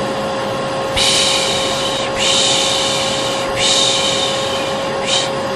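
Vacuum cleaner running steadily with a constant hum, overlaid by a repeated 'shh' shushing of the kind used to lull a baby. There are three long shushes of about a second each and a short one near the end.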